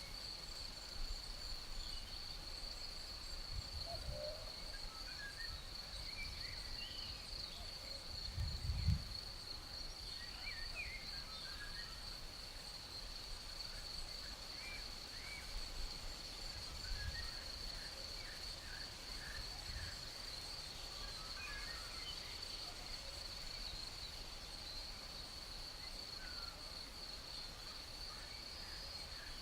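Crickets trilling steadily on one high note, with scattered short songbird chirps. A few low gusts of breeze rumble on the microphone, the strongest about nine seconds in.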